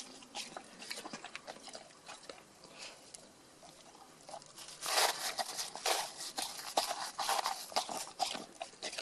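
Bernese mountain dog chewing icy snow: irregular crunching bites, sparse for a while, then a busier, louder run from about five seconds in.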